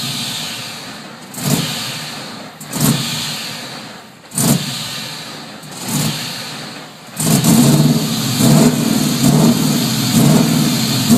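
LS1 5.7-litre V8 in a Nissan 240SX revving through a custom exhaust: four quick throttle blips that each fall back, then held at higher revs for the last few seconds with a pulsing, choppy note, which a listener takes for a serious cam.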